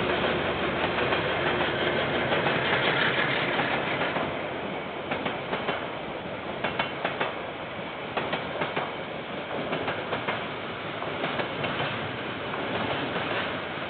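KiwiRail diesel-hauled freight train passing. The locomotive's steady rumble comes first; from about five seconds in, the container and tank wagons follow, their wheels clacking over the rail joints in quick groups of clicks.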